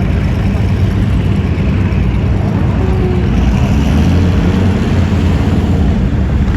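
Loud, steady rumble of car engines running. A faint engine tone comes up about halfway through.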